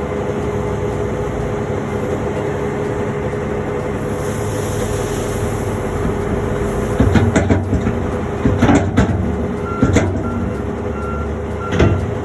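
Heavy farm vehicle engine running steadily, with a few clunks and rattles in the second half. A reversing alarm starts beeping near the end.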